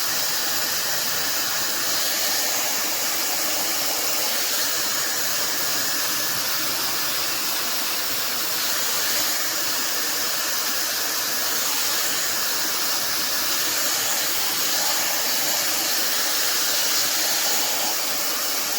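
Fentgo high-speed brushless hair dryer running steadily: a constant, even rush of air with a high-pitched hiss.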